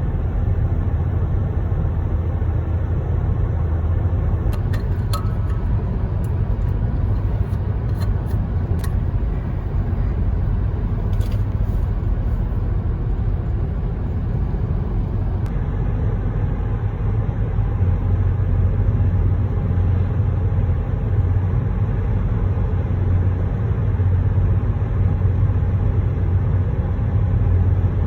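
Car driving along a road: a steady low rumble of road and engine noise, with a few faint clicks between about five and twelve seconds in.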